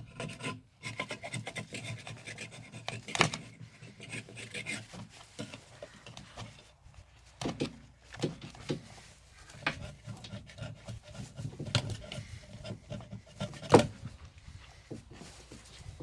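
Engine parts and hand tools being handled during an engine teardown: irregular rubbing, clicks and knocks, with a sharp knock about three seconds in and a louder one near the end.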